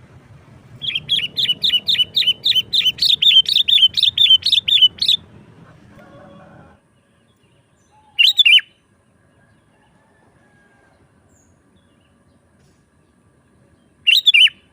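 Sooty-headed bulbul (kutilang) calling: a rapid run of about twenty sharp chirps, roughly five a second, lasting about four seconds, then two short single calls several seconds apart near the middle and the end.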